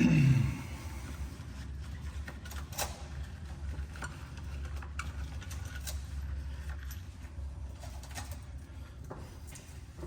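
A dove cooing briefly at the start, then a steady low hum with scattered light clicks and taps.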